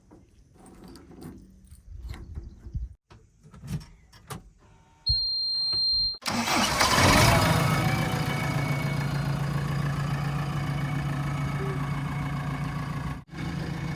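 A few faint knocks, then a steady high beep lasting about a second, then a diesel engine starts and settles into a steady run.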